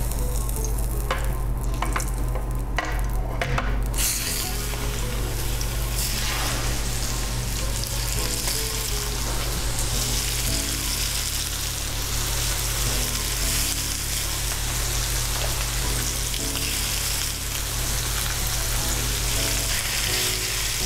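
Seasoned chicken breasts sizzling as they are laid into hot bacon grease in an electric frying pan set to 350°F. The sizzle swells to a steady hiss about four seconds in, once more pieces are in the fat. There are a few light clicks before that.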